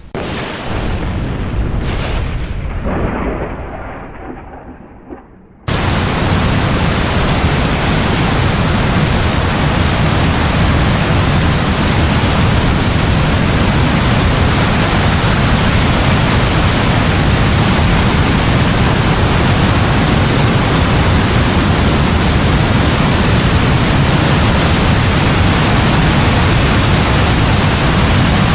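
A thunderclap cracks and rumbles, fading over about five seconds. Then a loud, steady hiss of heavy rain cuts in suddenly and runs on without change.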